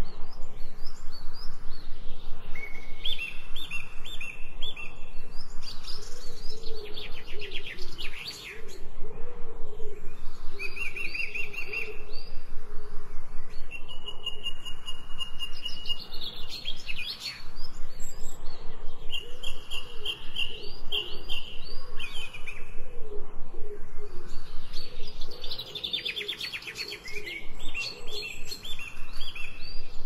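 Several songbirds chirping and singing, with short repeated phrases and quick trills coming every few seconds, over a lower wavering call.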